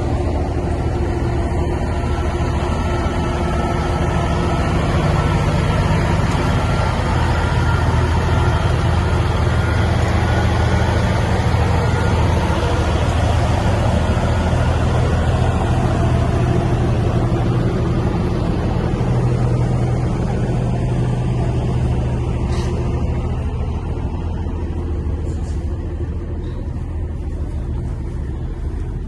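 Big-rig diesel truck engine running, a steady low drone that grows louder through the middle and eases off over the last several seconds.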